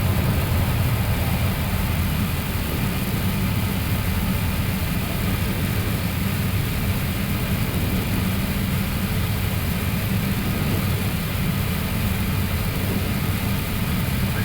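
Steady flight-deck noise of an Airbus A321neo climbing at takeoff thrust just after liftoff: a low drone of engine and airflow with a hiss over it, unchanging throughout.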